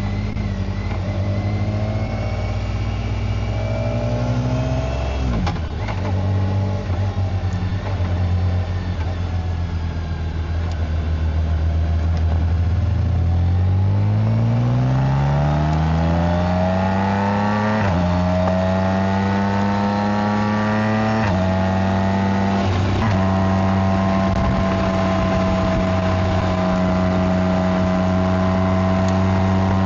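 BMW K1600GT's inline-six engine and exhaust accelerating through the gears. The pitch climbs, then falls back at upshifts about 5, 18 and 21 seconds in, and settles into a steady cruise for the last several seconds.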